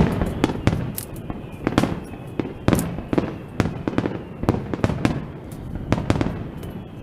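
Aerial fireworks shells bursting in quick succession, about two sharp bangs a second over a continuous low rumble of echoing booms.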